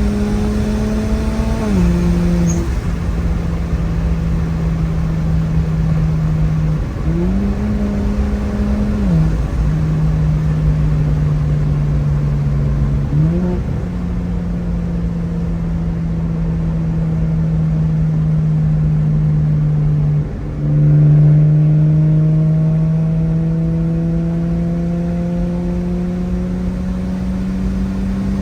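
Single-turbo BMW N54 turbocharged 3.0-litre inline-six running at moderate, steady revs under road noise. The engine note drops about two seconds in, steps up around seven seconds and falls back two seconds later, rises briefly near thirteen seconds, then dips sharply around twenty seconds before climbing slowly.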